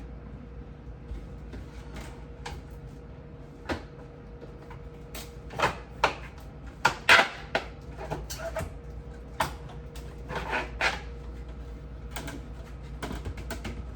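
Knocking and clattering of refrigerator parts being pulled and pushed into place: a string of sharp knocks and clicks, loudest in a cluster about halfway through, over a steady low hum.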